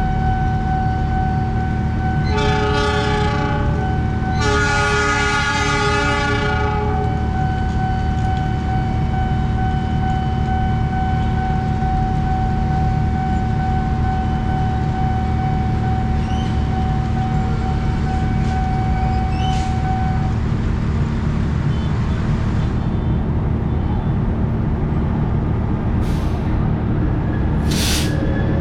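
Diesel train locomotive running with a steady low rumble and sounding its horn twice, a short blast followed about two seconds later by a longer one. A steady high tone carries on until about two-thirds of the way through, and two brief sharp noises come near the end.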